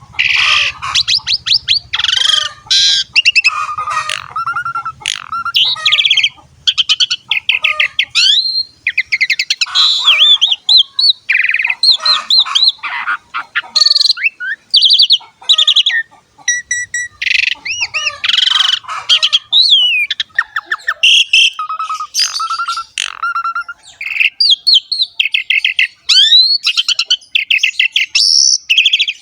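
Pied starling (jalak suren) singing a long, varied song: rapid chattering phrases mixed with sweeping whistles and trills, with hardly a pause.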